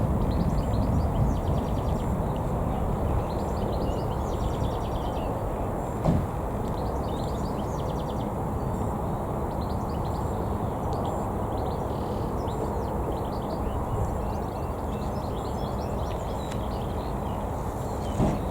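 Low rumble of a jet airliner's engines slowly fading away, with small birds chirping over it.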